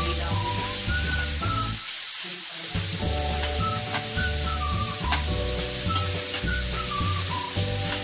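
Diced onion, capsicum and tomato sizzling in hot oil in a non-stick pan over high heat, with a metal spatula stirring and scraping the pan. Background music with a pulsing bass and a simple melody plays over it, the bass dropping out briefly about two seconds in.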